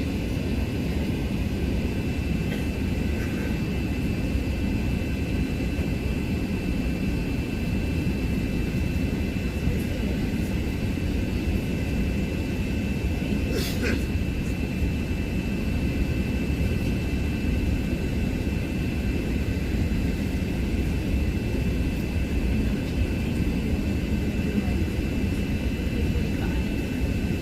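Cabin noise of an Airbus A380-800 heard from an economy seat: a steady engine and airflow rumble with a constant thin high whine. A single short click about halfway through.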